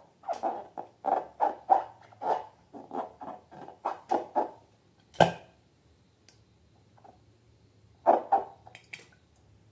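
Slime being squeezed and worked by hand, squishing about three times a second, then one sharp click about five seconds in and a few more squishes near the end.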